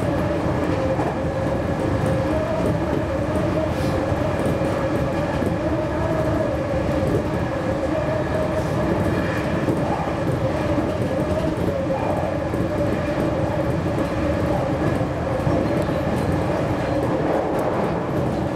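JR Kyushu 813 series electric train running at a steady speed, heard from inside the front of the car: a constant rumble of wheels on rail with a steady hum and a few faint clicks.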